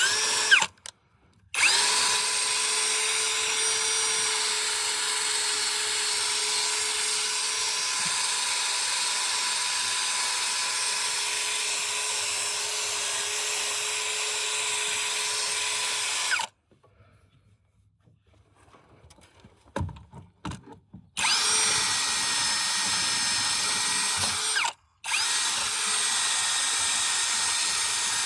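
Handheld electric power tool running at a steady speed in bursts. There is a short burst at the start, then one long run of about fifteen seconds. After a pause with a few small knocks come two shorter runs near the end, each starting and stopping abruptly.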